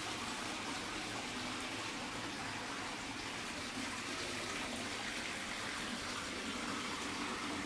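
Water flowing steadily, a small stream running through rocks with an even, unbroken rush.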